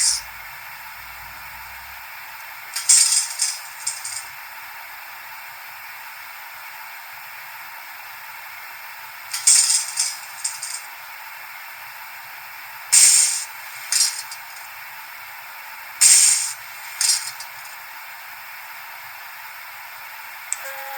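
Sound decoder of a Minitrix BR 103.1 N-scale model electric locomotive playing a steady hiss, broken four times by short, sharp bursts of hissing, each followed by one or two smaller bursts.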